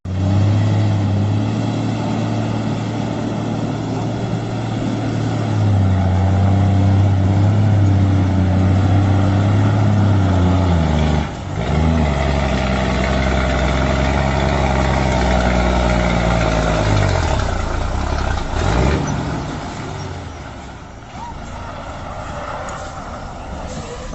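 Heavy truck engine running, its pitch stepping up and down several times and falling away about 18 seconds in.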